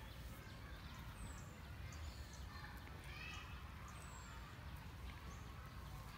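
Faint, scattered bird chirps and short falling whistles over a steady low background rumble.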